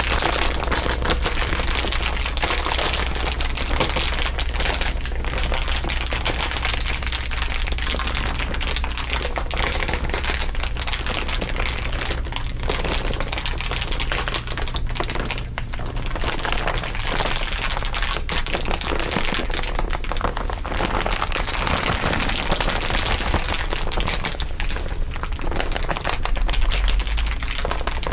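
Dense, continuous crinkling and crackling of crinkly material, several layers of crinkle sounds overlaid, with a steady low hum underneath.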